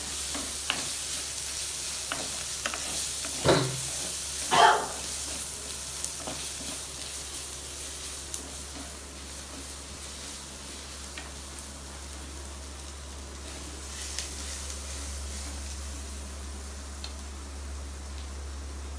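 Onion-tomato masala with red chilli sizzling in a pot as a spoon stirs it, with a couple of louder scrapes of the spoon against the pot a few seconds in.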